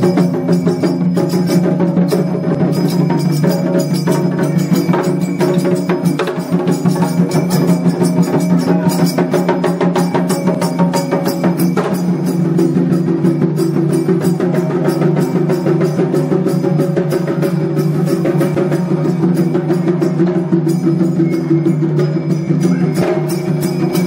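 Loud traditional temple-procession music: fast, dense percussion with woodblock-like clacks and drums over steady held tones.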